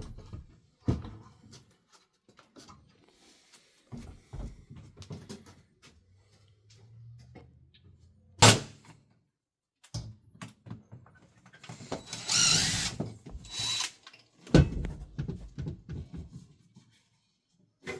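Scattered knocks, thuds and scraping of hand work with tools, with one sharp, loud knock about eight seconds in and a harsh scraping stretch of about two seconds around twelve seconds in.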